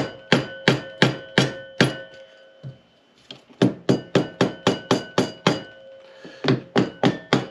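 Hammer blows on the seized Honda CB450 engine to knock its parts apart, each blow with a short metallic ring. The blows come in three quick runs of about three to five a second, with brief pauses between them.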